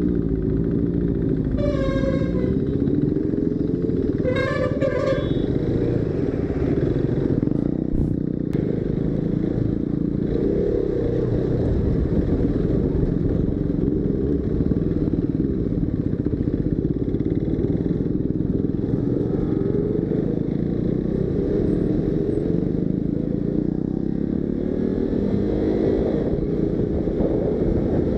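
Motorcycle engine running under way, its pitch rising and falling with the throttle, with wind rush. A vehicle horn sounds twice, briefly, about two seconds in and again about four and a half seconds in.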